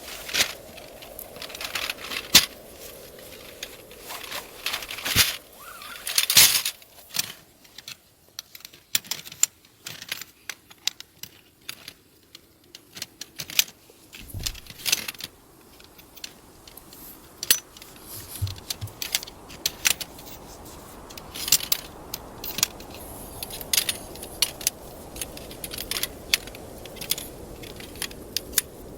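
Irregular sharp clicks and clinks, as of small hard objects being handled, over a steady background hiss.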